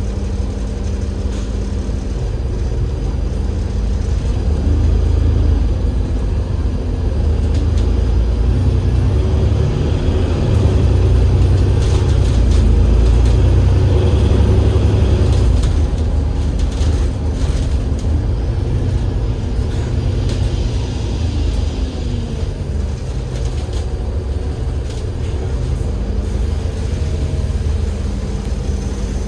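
Cummins L9E six-cylinder diesel engine of an Enviro500 MMC double-decker bus idling, then running harder for several seconds with its pitch rising and falling through the ZF Ecolife automatic gearbox's shifts, and settling back to idle near the end.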